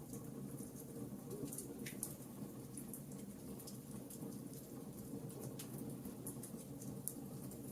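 Wood fire in a fireplace crackling, with many small irregular pops and snaps over a steady low rush.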